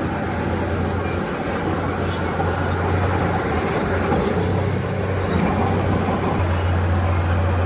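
Bulldozer's diesel engine running steadily under work, with scattered short high squeaks from its steel tracks and running gear.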